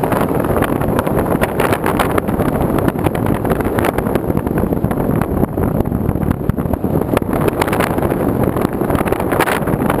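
Loud, steady rushing noise of wind and rain on an action camera's microphone, with many small crackles and taps through it.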